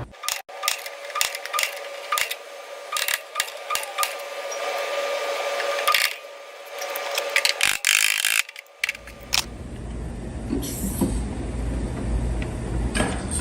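Dent puller working low spots out of a steel quarter panel: a run of sharp metallic clicks and knocks, with a couple of brief harsher bursts. A steady low hum comes in about nine seconds in.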